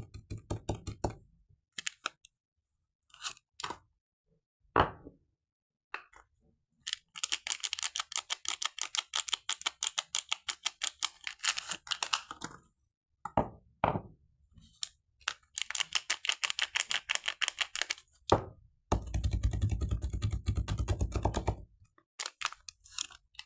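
Rapid runs of light tapping clicks, several a second, with single knocks in between, from hands handling soap bars and their packaging. The last run, about three-quarters of the way through, sounds fuller and deeper than the others.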